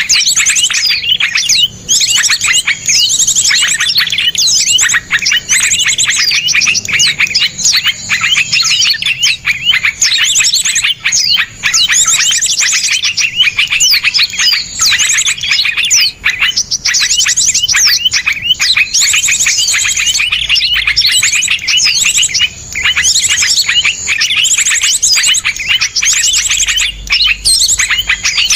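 Dense, continuous songbird chatter: small birds singing fast, harsh chirps and rapid trills one after another with scarcely a break, the rapid-fire 'tembakan' song used as a masteran recording for training cage birds.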